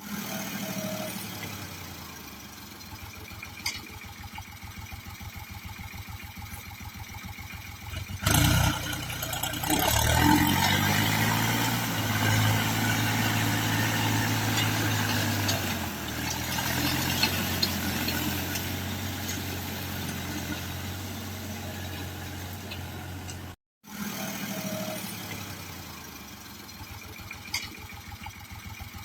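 Ford 4630 tractor's three-cylinder diesel engine idling with an even beat, then revved up about 9 s in, held at higher speed for several seconds and let fall back to idle; a loud burst of noise comes just before the rev.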